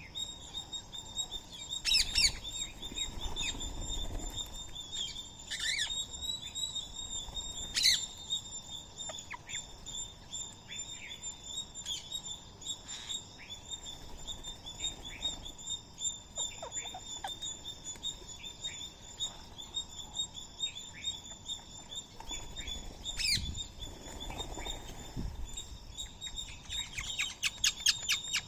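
Indian ringneck parakeets calling: several sharp, loud screeches, a few at a time, over a constant high-pitched chirping.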